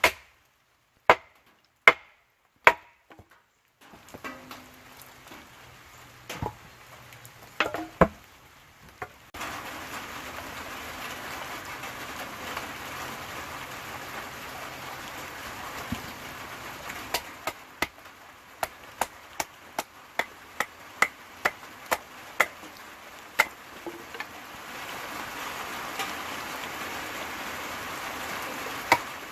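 Wood being chopped: a series of sharp knocks, with a quicker, regular run of strikes partway through. A steady hiss of rain comes in behind them after the first few seconds.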